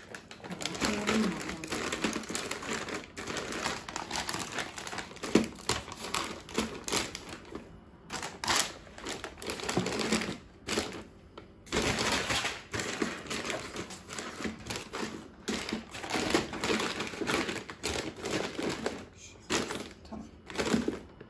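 Plastic food storage containers and food packets being handled and set into a cupboard: a busy run of small clacks and knocks with crinkling packaging.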